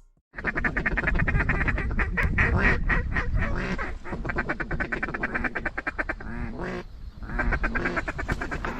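A rapid, continuous run of duck quacks, many a second, with short breaks about four and seven seconds in.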